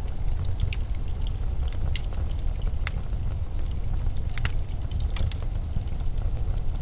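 Snowstorm wind: a steady low rumble, with scattered sharp ticks and crackles over it.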